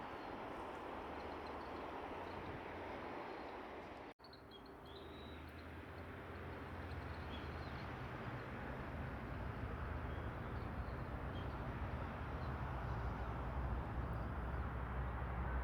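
Faint, brief chirps of small birds scattered over a steady outdoor noise bed. A low rumble grows louder after an abrupt break about four seconds in.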